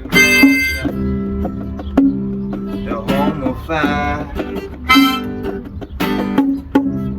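Guitar music: plucked notes over a steady low bass line, with a brief vocal line about three to four seconds in.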